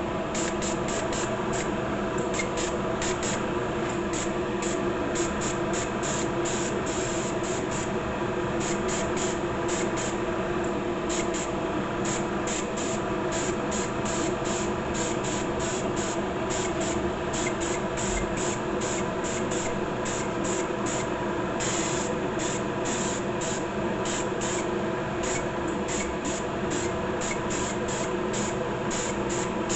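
Clear coat being sprayed onto a plastic model kit in many short, quick hissing bursts, over the steady hum of a running motor from the spray setup.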